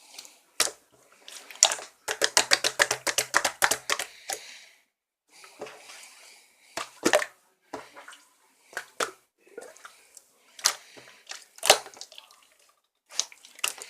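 Translucent slime being squished and poked by hand, making sharp wet clicks and pops, with a quick run of about eight or nine pops a second from about two to four seconds in.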